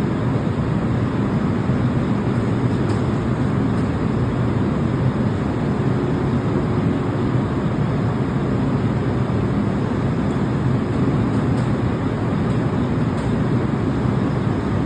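Steady rumble of a moving electric commuter train, with a few faint clicks.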